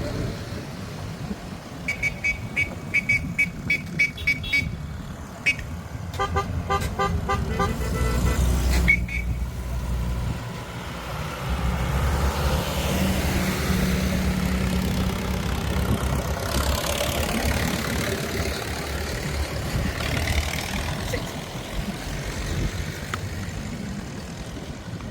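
Tractor engine running steadily, growing louder partway through. Over it, two runs of quick, evenly spaced beeps sound in the first nine seconds, the first high-pitched and the second lower and fuller.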